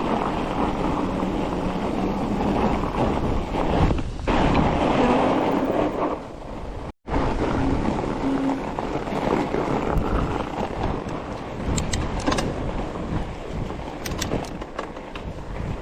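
Wind rushing over the microphone and a Trek Farley 7 fat bike's tyres running on groomed snow at speed. The sound cuts out briefly about seven seconds in, with a few short clicks and rattles near the end.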